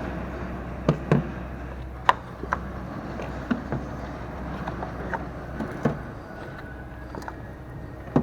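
Scattered light clicks and knocks, about a dozen at irregular intervals, from hand tools and ignition coils being handled in a four-cylinder engine bay during coil removal, over a steady low hum.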